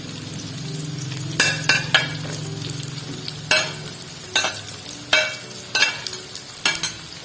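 Young galangal stalks stir-frying with garlic and shallots in a pan: a steady sizzle, with a spatula scraping across the pan in about eight short, irregular strokes.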